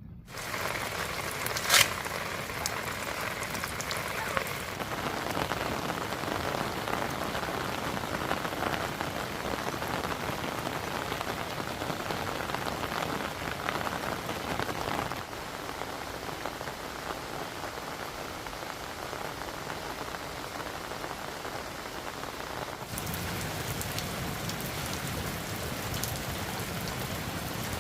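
Heavy rain falling steadily, with one sharp click about two seconds in.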